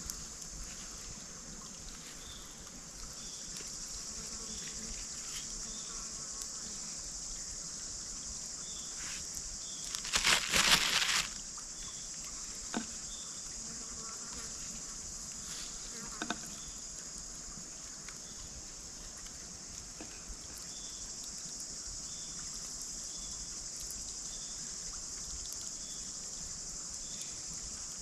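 Steady high-pitched chorus of insects, with faint chirps repeating about once a second. About ten seconds in, a loud noise lasting about a second cuts across it, followed later by a few faint knocks.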